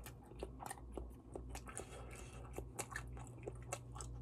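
Close-up chewing and biting of malatang, a run of small wet clicks and crunches, over a steady low hum.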